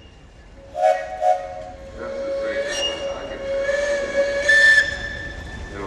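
Steam traction engine whistle blowing: two short toots, then one long blast that cuts off near the end.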